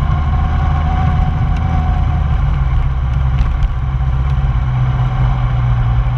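1999 Yamaha R1's inline-four engine running with a steady low note, holding its revs with no rise or fall.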